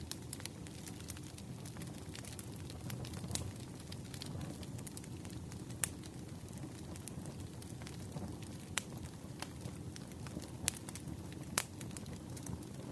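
Wood campfire crackling: a steady low rush of burning with frequent small pops and a few louder sharp snaps.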